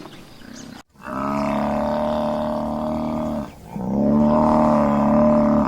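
Buffalo bellowing: two long, low, drawn-out calls, the second a little louder, after a short cut to silence about a second in.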